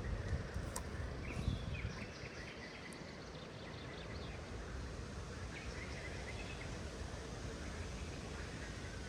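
Small birds chirping in short, scattered calls over a steady low outdoor rumble that is stronger in the first two seconds.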